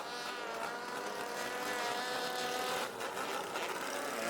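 Engine of a longtail racing boat running steadily at speed, its pitch drifting only slightly, with a brief dip about three seconds in.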